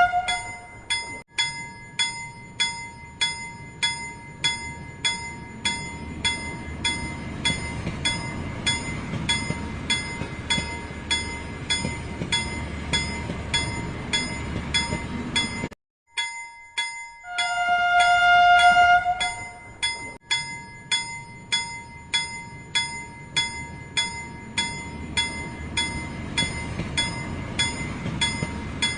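Toy steam train's sound effects: a held whistle note, then a steady clicking chuff a little under two beats a second over a running motor. It cuts out briefly about halfway through, and the whistle sounds again before the clicking rhythm resumes.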